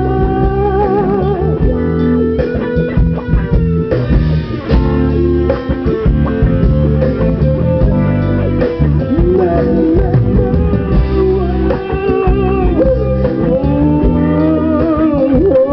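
Instrumental break of a pop-rock song: a lead guitar plays a melody with bent, wavering notes over a steady bass and drum backing.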